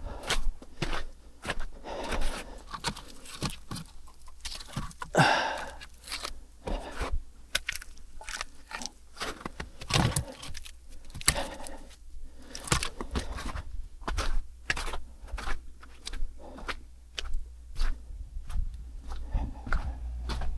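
Irregular clicks, knocks, crunches and scrapes of objects being handled, loudest around five and ten seconds in, over a steady low hum.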